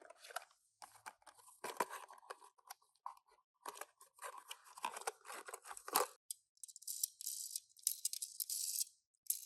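Hands unboxing a Tomica die-cast minicar: clicks, knocks and rustling of the small cardboard box and its packaging for about six seconds, then a couple of seconds of high crinkling or tearing.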